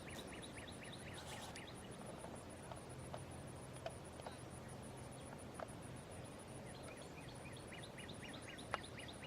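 Outdoor ambience: a bird sings a run of quick, repeated short chirps at the start and again near the end, over a steady, rapid, high-pitched pulsing and a few faint clicks.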